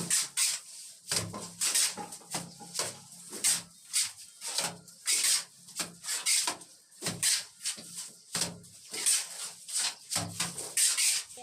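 Steel trowel scraping cement-sand plaster across a wall in repeated short strokes, roughly two a second.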